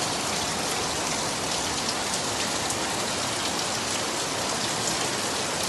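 Steady rain falling hard, an even hiss with scattered individual drops striking a surface.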